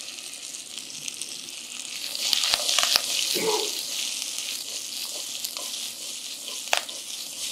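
Okra pieces sizzling in hot oil and tempering spices in a stainless-steel pot as the pot is tossed. The sizzle swells for a second or so about two seconds in, with a few light clicks.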